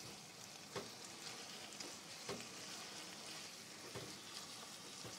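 Chicken livers in tomato-onion masala frying over a high flame in a non-stick wok while a spatula stirs them: a faint, steady sizzle with three soft knocks of the spatula against the pan.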